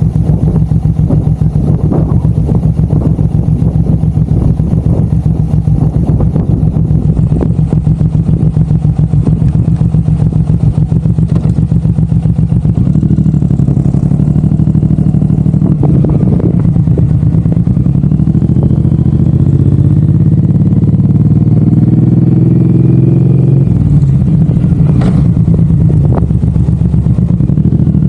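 Suzuki M109R's big V-twin engine running with a low, pulsing beat, then revving up with a rising pitch that drops suddenly a few seconds before the end, as at a gear change. A few sharp clicks break through.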